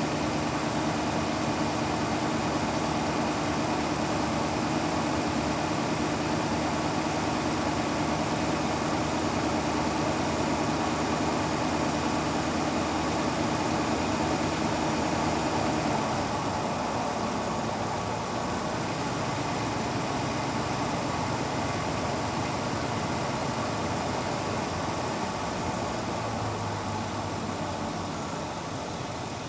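Car engine idling steadily. About halfway through, its pitch drops and it settles into a lower, slightly quieter idle.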